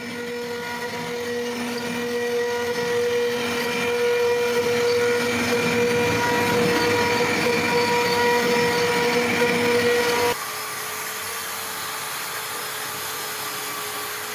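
CNC router spindle running with a steady high whine over a cutting noise, most likely machining wood. The sound drops to a quieter, steadier run about ten seconds in.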